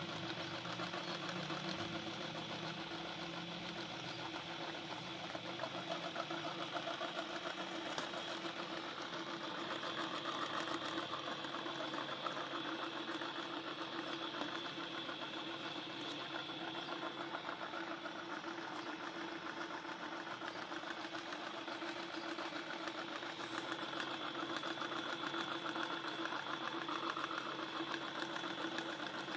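Electric meat grinder motor running steadily with a constant hum and a fine rattle, grinding banana.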